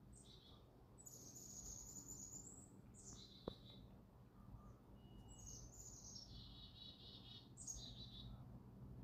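Faint songbirds singing in short high phrases: quick falling notes and two longer rapid trills. A single sharp click about three and a half seconds in.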